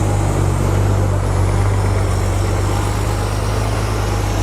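Bulldozer's heavy diesel engine running steadily with a deep, even drone.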